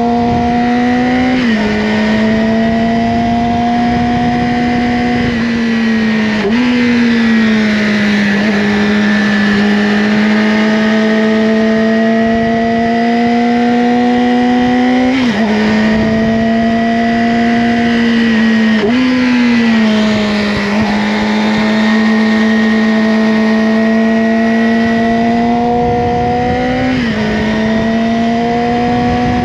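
Yamaha R6 inline-four sport bike running through an Akrapovic slip-on exhaust at steady, fairly high revs. The engine note creeps up in pitch and then steps or dips abruptly about five times, at around 1.5, 6.5, 15, 19 and 27 seconds, as the throttle and gears change.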